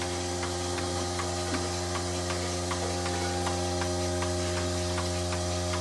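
A steady hum with faint, regular ticks a few times a second.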